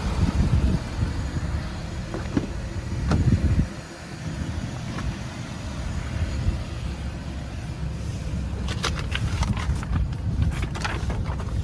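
Ford 6.7 L Power Stroke V8 turbodiesel idling with a steady low rumble. A couple of knocks come in the first few seconds, and a quick run of clicks near the end.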